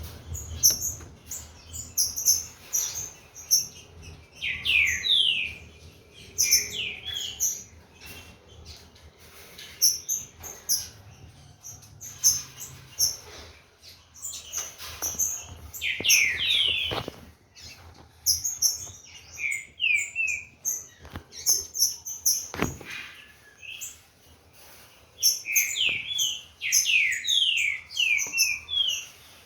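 Green-winged saltator (trinca-ferro) singing in short bursts of quick, falling whistled notes with higher chips, separated by pauses, as it warms up its song. Scattered sharp clicks and taps between phrases.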